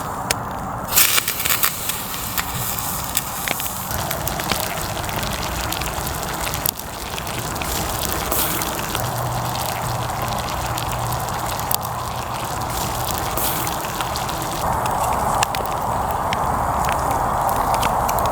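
Wood campfire crackling steadily, with sharp pops and snaps scattered through it and a quick burst of pops about a second in.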